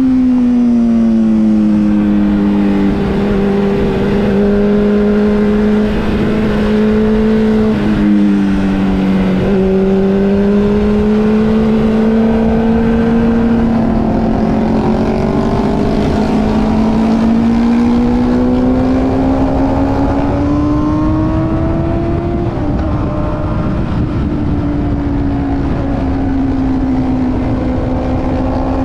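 Motorcycle engine running under way, its note sinking slowly, dipping briefly about a third of the way in, then climbing gradually and easing off again near the end.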